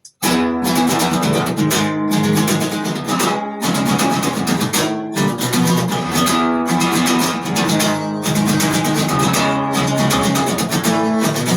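Acoustic guitar strummed as an instrumental intro. It starts suddenly, with short breaks between chords about every one and a half seconds.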